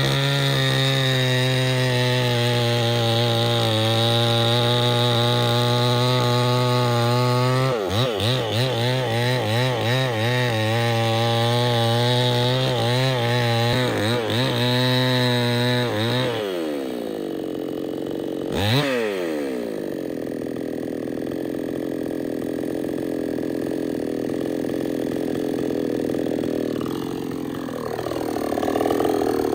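Chainsaw running at full throttle through wood, steady at first, then its pitch wavering as the revs rise and fall. About halfway through it drops to idle, with one quick blip of the throttle, and it revs up again near the end.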